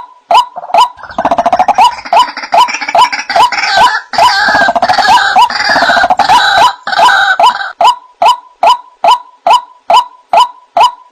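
White-breasted waterhen (ruak-ruak) calling: loud, short rising notes repeated nearly three a second. From about a second in until near the end the calls overlap into a denser, rougher chorus, then the steady run of single notes returns.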